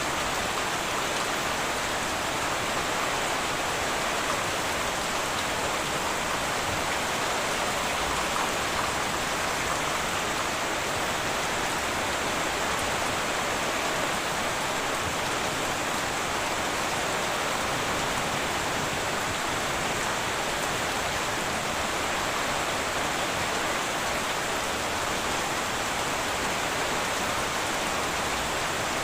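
Heavy rain falling steadily on a tin roof, an even, unbroken hiss of drops with no thunder.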